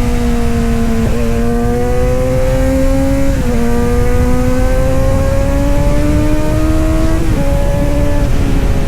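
Kawasaki Z900 inline-four engine and exhaust under load, its pitch climbing slowly and then dropping sharply at each upshift, about 1, 3.5 and 7.5 seconds in, over a heavy low rumble of wind and road noise.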